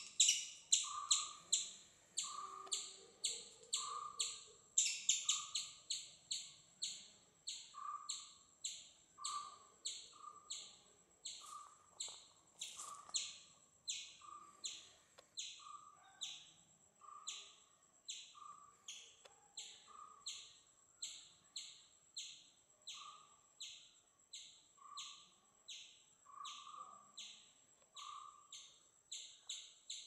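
Rhythmic bird chirping: high chirps repeat about twice a second, with a lower note about once a second, a little louder in the first few seconds.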